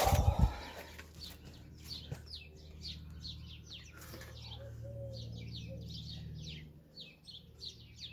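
Small birds chirping, many short quick chirps that fall in pitch, several a second, over a low steady hum that stops near the end. A low thump comes right at the start.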